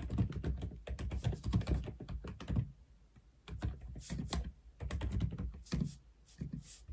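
Typing on an Aula F87 mechanical keyboard: quick runs of keystrokes, with a brief pause a little under three seconds in before the typing resumes.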